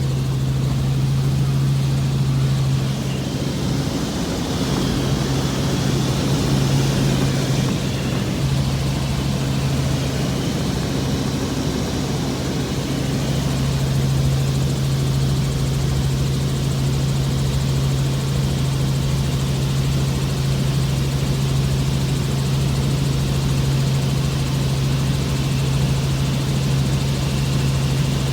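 Helicopter in flight: a steady engine and rotor drone with one strong low hum that holds throughout.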